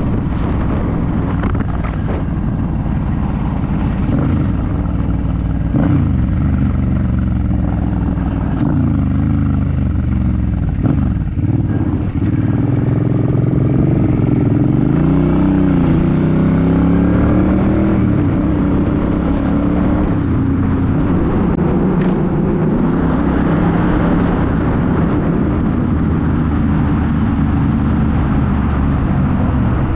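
2006 Suzuki C50's V-twin engine running while riding, its note dipping and climbing several times through the middle as the throttle changes.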